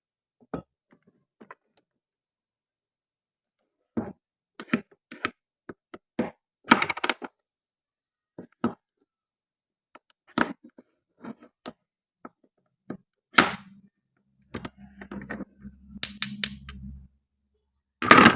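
Irregular sharp clicks and taps of toy-kitchen play-food pieces being cut and handled on a hard surface, with a low hum for a couple of seconds near the end.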